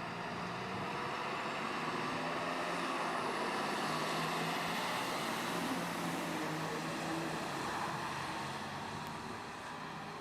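A road vehicle on the move: steady engine and road noise that swells slightly in the middle, then eases off near the end.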